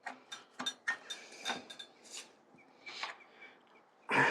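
Steel headset spanners clinking and knocking against the headset locknut of a 1990 steel bicycle as they are fitted and worked: a run of short metal clicks. A louder scraping burst follows about four seconds in.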